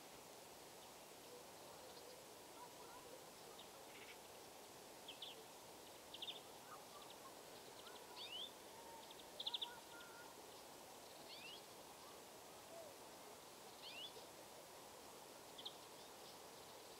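Faint small-bird calls: short high chirps, some sliding downward, in scattered clusters every second or two over a steady low hiss.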